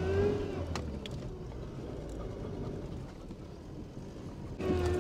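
Vehicle engine running under load with a pitched whine that rises over the first half-second, then fades to a lower steady running sound; near the end it comes back louder, as after a cut.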